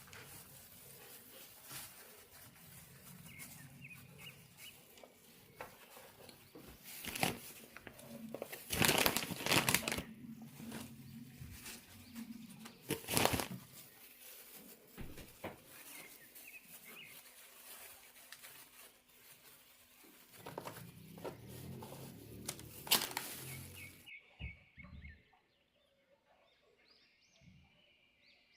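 Rustling and crinkling handling noise with several loud sharp knocks scattered through, and a sudden change to a much quieter sound near the end.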